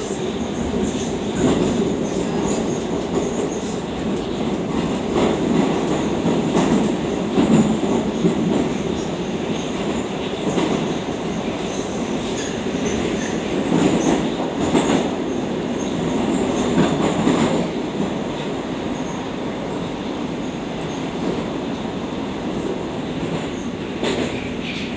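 Moscow Metro 'Oka' (81-760/761) train running between stations, heard from inside the car: a steady rumble of wheels on rails with scattered clicks and swells.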